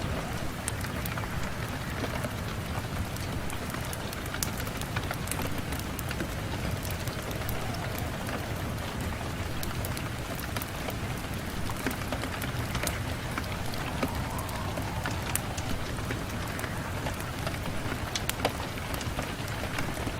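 Steady rain on a window, an even wash of noise with many small sharp ticks of drops throughout.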